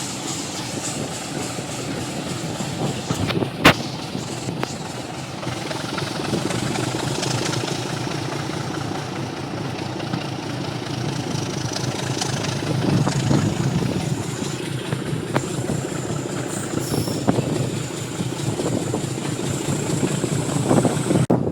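A train running with a steady rumble, with one sharp knock about three and a half seconds in and a faint high whine that slowly rises in pitch through the second half.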